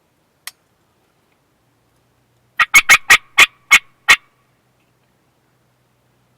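Turkey cutting: a quick run of about seven sharp, clipped notes lasting under two seconds, after a single faint click.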